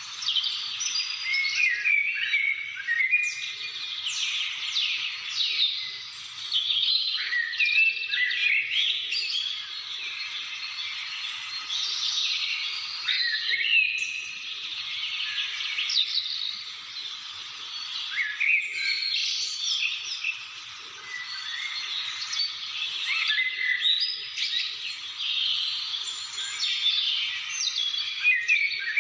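Several birds singing and calling at once: a dense, continuous chorus of overlapping chirps and short gliding whistled notes.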